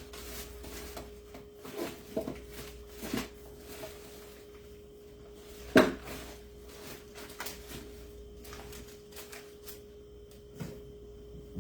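Rummaging through craft-supply containers: scattered clicks and knocks of items and lids being handled, with one loud knock about six seconds in.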